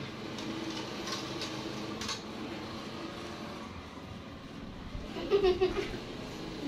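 Light clinks and knocks of a pot or basin being handled. About five seconds in there is a brief, louder voice-like sound.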